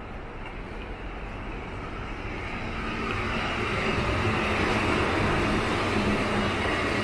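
Electric commuter train passing on the tracks alongside, a steady rumble of wheels on rail with a low hum, growing louder about three seconds in as the cars come level and then holding steady.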